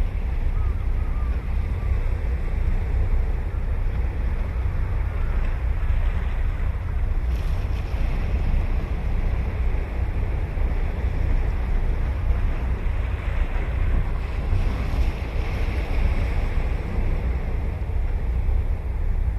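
Ocean surf washing and breaking steadily on a sandy beach, with a swell of louder surf about three-quarters of the way through. Wind rumbles on the microphone underneath.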